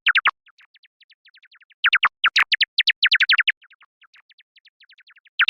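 Bat calls: a rapid series of short, high chirps, each sweeping downward in pitch, about ten a second, coming in loud runs with fainter runs in between.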